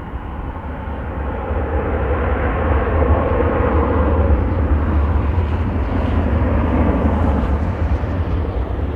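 Engines of a passing aircraft, a steady rumble that swells over the first three seconds and then stays loud.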